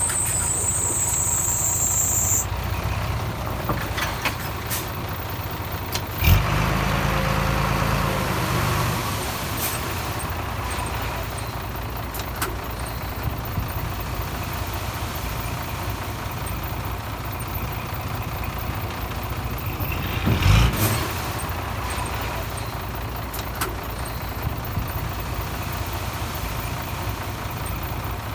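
Diesel earthmoving machinery running steadily, with a high whine for the first couple of seconds. A sharp knock about six seconds in is followed by a few seconds of heavier running, and there is another loud burst about twenty seconds in.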